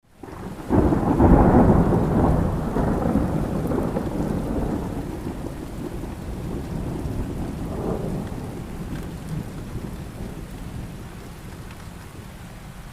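A thunderclap rolls in about a second in and rumbles away slowly, with a smaller rumble near the end, over steady heavy rain.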